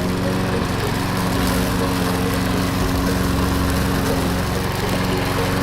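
A small engine running steadily with an even hum, with no change in speed.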